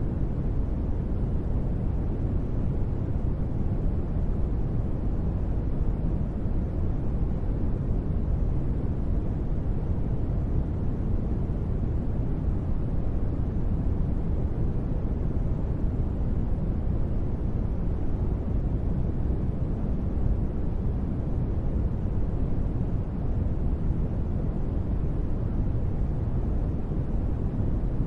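Steady, deep rumbling noise, a synthesized space-ambience noise bed with its weight in the bass and little treble. It stays even throughout, with no events or changes.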